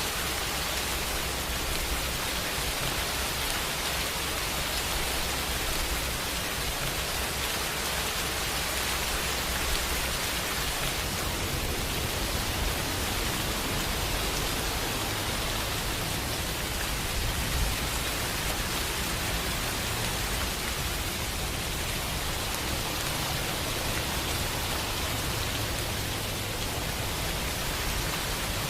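Steady heavy rain falling, an even hiss that does not let up.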